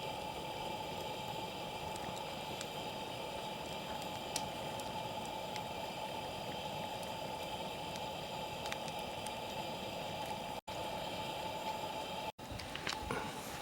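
Wood fire burning with a steady hiss and scattered small crackles and pops. The sound cuts out for an instant twice near the end.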